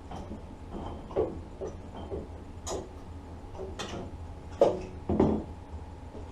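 Scattered clicks and knocks of tools and metal parts being handled, the loudest a sharp knock about two-thirds of the way through, over a low steady hum.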